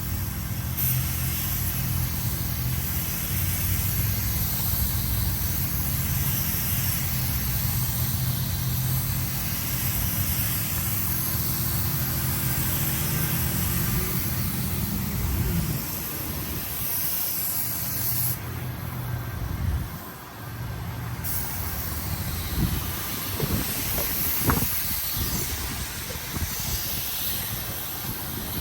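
Air-powered paint spray gun hissing as another coat of paint goes on. The spray is let off for about three seconds roughly two-thirds of the way through, then resumes. A low steady hum underneath stops about halfway.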